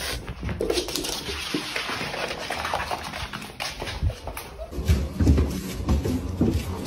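A dog's vocal sounds amid rustling and handling noise, with short irregular knocks and clicks throughout.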